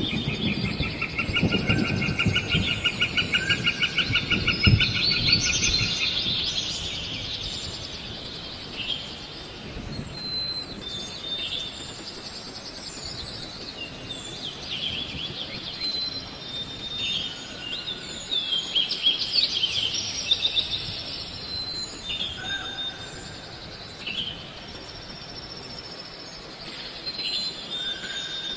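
Several birds chirping and calling: a fast, even trill for the first six seconds, then scattered short chirps and whistles. Low noise underneath fades after about six seconds.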